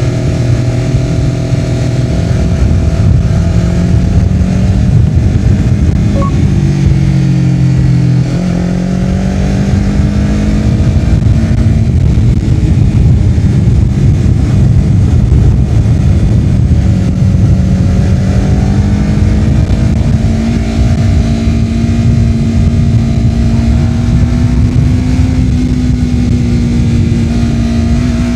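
Honda CBR250RR parallel-twin engine running through a Yoshimura R-11 slip-on exhaust as the bike is ridden. Its pitch shifts a couple of times in the first eight seconds, then settles into a steady note that climbs slowly.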